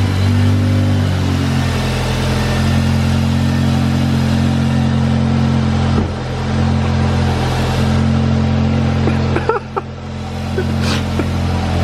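Audi S3's turbocharged four-cylinder engine idling just after a start. It is fitted with a turbo muffler delete and an aftermarket turbo inlet. The idle settles down a little in the first second or so and then runs steady.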